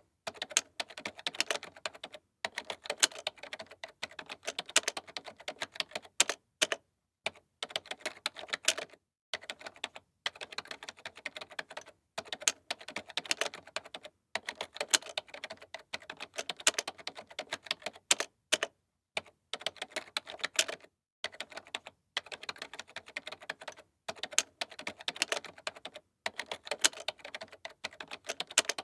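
Typing on a computer keyboard: rapid runs of sharp keystroke clicks, broken every couple of seconds by brief pauses.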